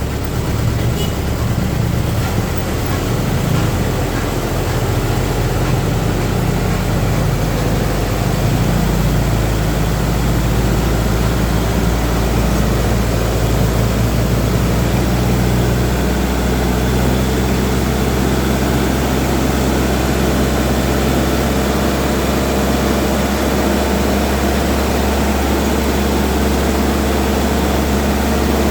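Mitsubishi PS120 diesel engine driving a sand pump, running steadily after being throttled up. Its low running note wavers a little in the first several seconds, then holds steady.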